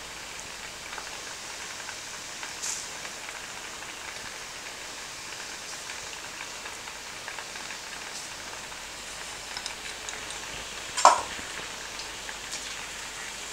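Small dumplings of ground soaked chana dal paste deep-frying in hot oil, a steady sizzle, with a sharp knock near the end.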